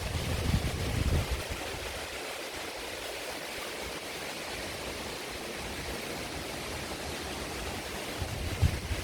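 Heavy rain falling in a steady, even hiss. There is a low rumble in the first second and again near the end.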